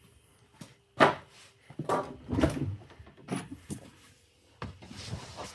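Tesla Model Y's original factory wiper blades sweeping across the windshield, with a series of dull thumps as the arms move and reverse, and no squeak or creak: the OEM blades run quietly.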